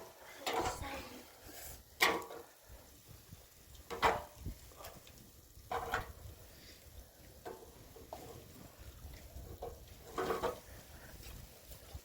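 Scattered knocks and clinks of household objects being handled, one every second or two, with sharper ones about 2, 4 and 10 seconds in.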